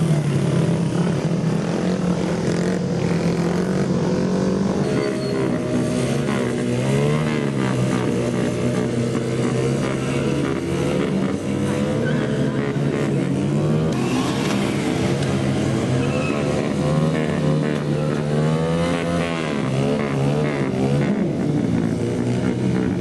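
Several small mini bike engines running at once, revving up and down over and over, their pitch rising and falling.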